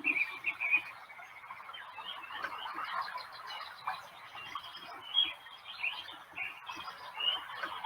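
Birdsong: several small birds chirping in many short, overlapping calls over a faint steady hiss.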